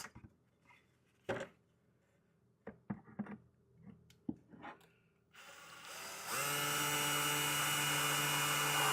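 A few light clicks and knocks as the screw is set in place. About five seconds in, a screw gun spins up, then runs at a steady speed for under three seconds, driving a small wood screw into the cedar hive wood, and cuts off near the end. The screw goes in really easy.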